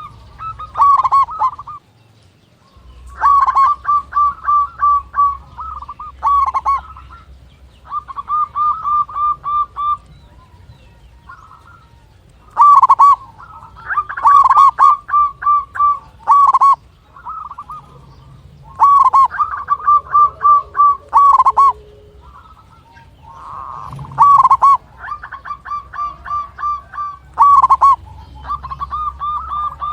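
Zebra dove (perkutut) cooing: phrases of rapid, evenly spaced pulsed notes, repeated every few seconds with short pauses between them.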